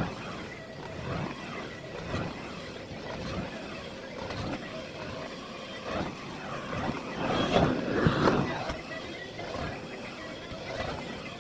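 Miele Blizzard CX1 bagless cylinder vacuum cleaner running, sped up, its noise swelling and fading over and over, loudest about eight seconds in.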